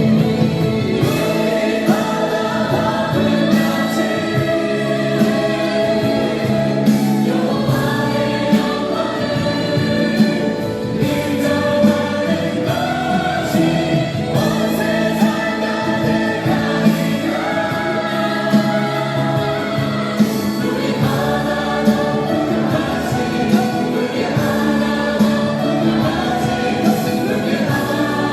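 A choir singing a worship song over instrumental accompaniment with a steady beat.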